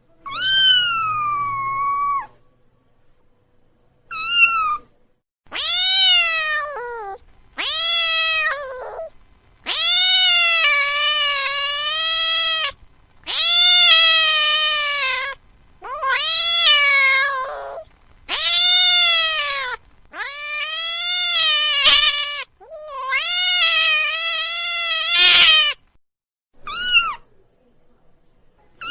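Domestic cat meowing over and over: about a dozen drawn-out meows, each rising and then falling in pitch, the longest about three seconds, with short pauses between them.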